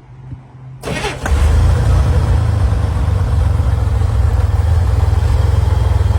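A car engine fires up about a second in and settles into a loud, steady idle with an even low pulse.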